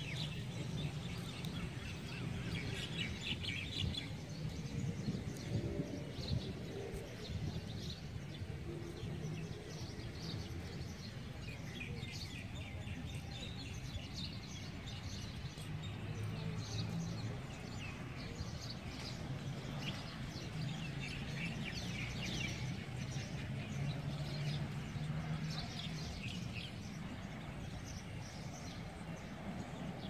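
Many small birds chirping and twittering throughout, over a steady low rumble.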